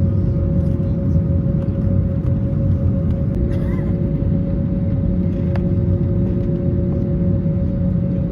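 Steady low rumble inside an Airbus A321neo airliner cabin, with two steady hum tones over it, the lower one coming in about halfway through.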